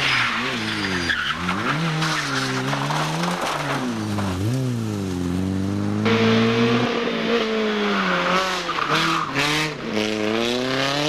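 Rally car engine at full throttle, its pitch dropping and rising again and again as the driver lifts, shifts and accelerates, over a loud rushing noise from the car at speed. About six seconds in the sound cuts abruptly to another passage, ending with several quick climbs in pitch as the car accelerates up through the gears.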